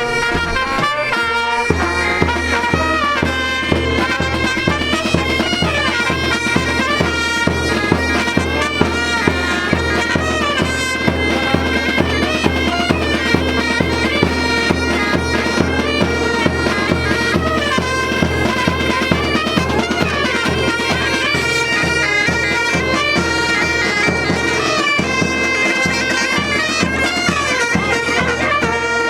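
Pipe band playing: bagpipes sound a melody over a steady drone, with a drum beating an even rhythm underneath.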